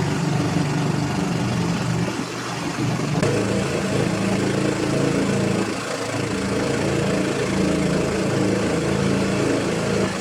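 A motor engine running steadily at a constant speed, its pitch shifting slightly about three seconds in.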